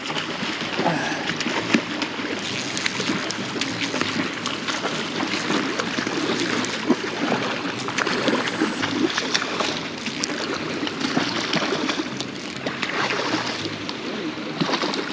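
Water splashing and sloshing as a hooked fish is reeled in and landed through the river shallows: many short splashes over steady running river water.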